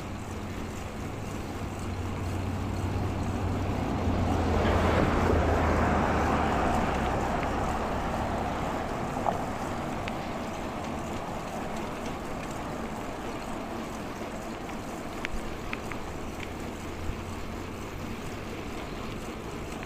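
Rushing noise of a bicycle ride: wind on a clip-on mic with tyre and road hum. It swells to a peak about five seconds in, then eases to a steady rush, with a few small clicks near the end.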